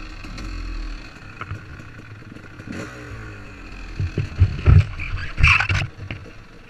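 Motorcycle engine running, with a series of loud knocks and clatter between about four and six seconds in.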